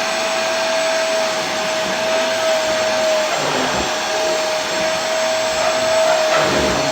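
Vacuum cleaner running steadily: an even rushing hiss of air with a constant motor whine.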